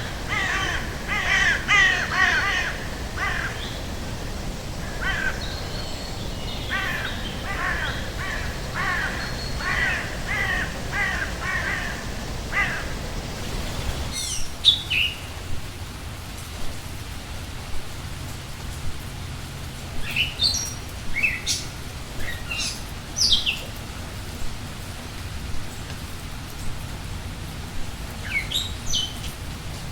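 Wild birds calling over a steady background hiss: a run of rapid, harsh, repeated calls for the first half, then after an abrupt change in the background about halfway through, scattered short, high chirps that sweep downward.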